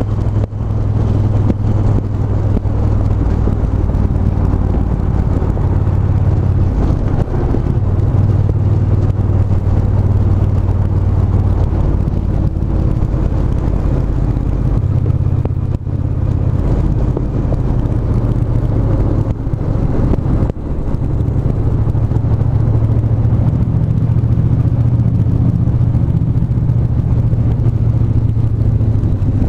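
Triumph 1200 cc parallel-twin motorcycle engine running under way, a steady low note with road and wind noise. The note changes briefly a few times, as the throttle or gear changes.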